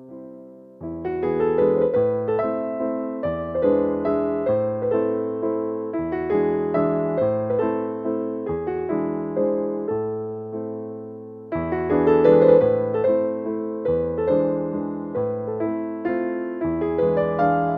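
Background piano music: a gentle melody of struck notes that fade, phrase after phrase, swelling again about twelve seconds in.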